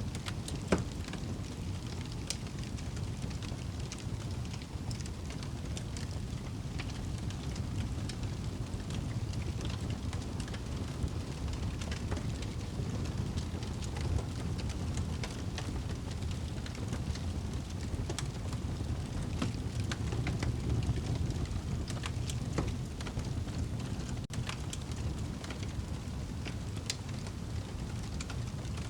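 Wood fire burning in a fireplace: a steady low rumble of the flames with frequent small crackles and pops, a sharper pop about a second in.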